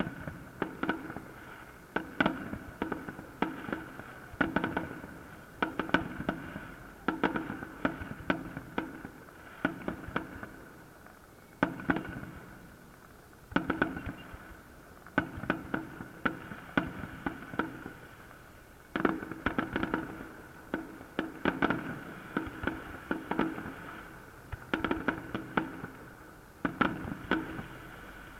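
Fireworks salute: shells bursting aloft in clusters of sharp bangs, a new volley every second or two, each trailing off in an echoing rumble.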